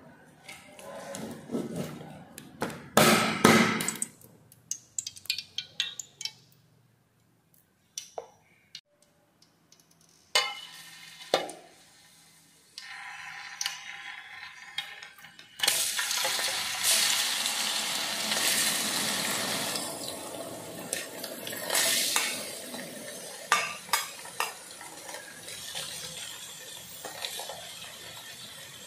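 Dishes and utensils clinking, then raw frog pieces sizzling in hot oil in a metal wok. A single piece hisses faintly first; about halfway through the whole batch goes in and the sizzling turns loud and steady, with clinks of the pan over it.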